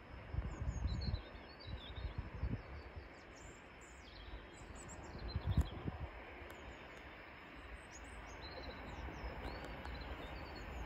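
Small birds chirping and trilling, with gusts of wind buffeting the microphone a few times.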